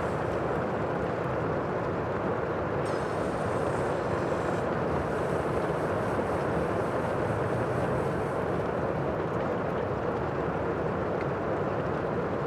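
Sea waves and surf: a steady, unbroken wash of noise.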